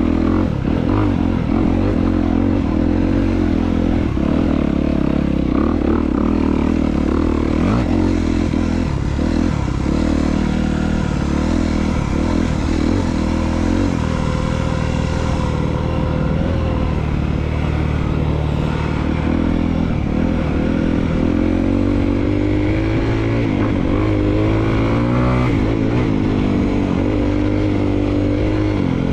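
2022 Honda CRF250R's single-cylinder four-stroke engine running under way at fairly even, low revs, its pitch rising and falling with the throttle in the last few seconds.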